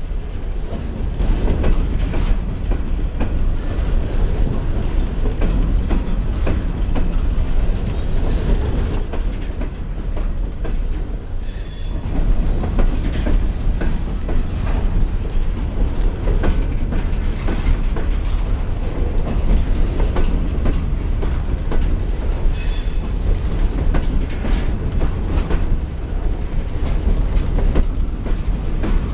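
Norfolk Southern freight train of coal cars rolling past with a steady, loud rumble and wheels clacking over the rail joints. Two brief high-pitched wheel squeals come about 11 seconds in and again around 22 seconds.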